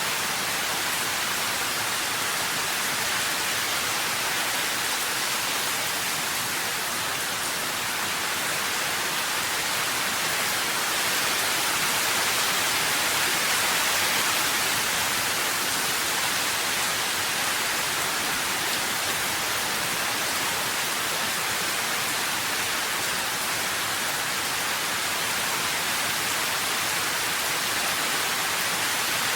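Steady, even rain hiss with no distinct drops or thunder.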